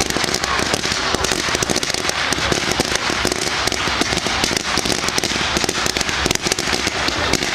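Fireworks going off in a dense, continuous run of rapid crackling bangs, many overlapping, with no let-up.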